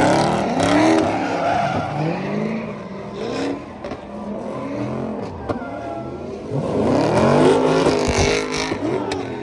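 A car engine revving hard up and down over and over, loudest near the start and again about seven seconds in.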